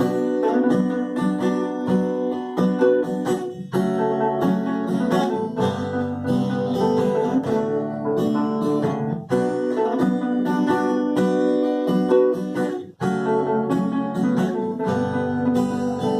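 Acoustic guitar playing an instrumental passage, strummed and picked chords with no singing, broken by a short stop about three-quarters of the way through.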